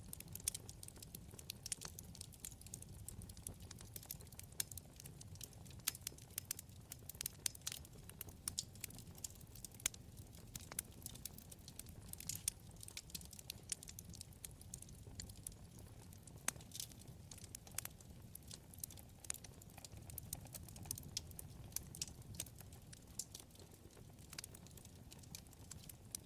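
Wood fire burning in a fireplace: frequent irregular pops and crackles from the burning logs over a steady low rumble of the flames.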